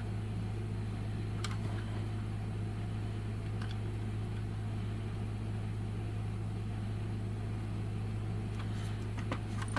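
A steady low hum, with a few faint clicks and taps from the die-cast model car being handled, about a second and a half in and again near the end.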